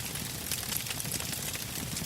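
Burning logs crackling in a campfire: a steady low hiss with frequent small pops and ticks.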